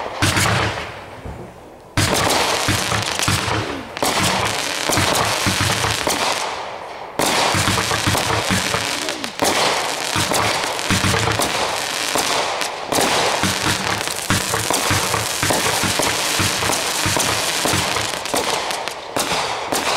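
Aerial fireworks shells bursting in quick succession, with loud booms and a dense, near-continuous crackle. Heavy new bursts hit about 2 seconds in and again about 7 and 9 seconds in.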